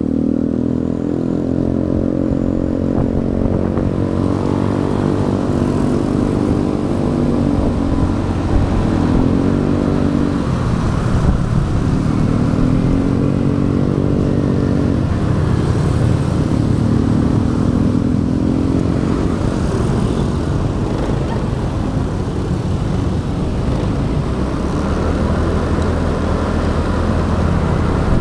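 Motorcycle engine running under way, its pitch rising and falling several times as the rider speeds up and slows down, over steady wind and road noise on the action camera's microphone.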